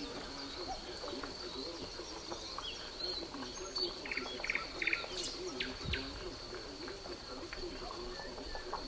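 Wild birds calling, with short chirps and a few quick trills in the middle over a low, wavering call that keeps going. A steady high-pitched whine runs underneath.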